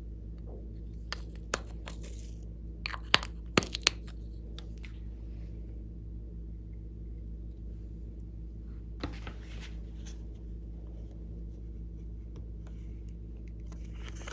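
Slime being worked by hand, giving sharp clicks and crackles, bunched about one to four seconds in and a few more around nine seconds, over a steady low hum.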